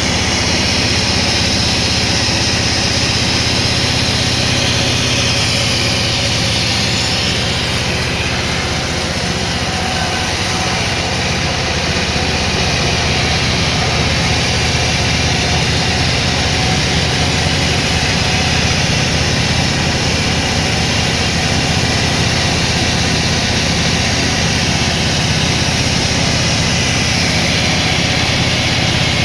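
Sawmill machinery running steadily: a loud, even mechanical drone with no pauses.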